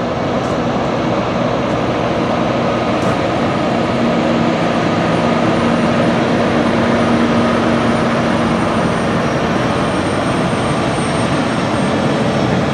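Peterbilt truck's diesel engine running as the truck rolls past slowly. The sound is loud and steady and swells a little in the middle.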